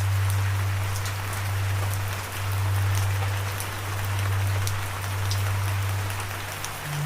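Steady rain with scattered sharp drop ticks, over a loud low droning tone that swells and eases every two or three seconds.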